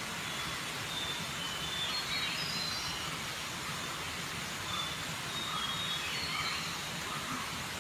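Steady outdoor natural ambience, an even rushing noise, with faint high bird calls in two short runs.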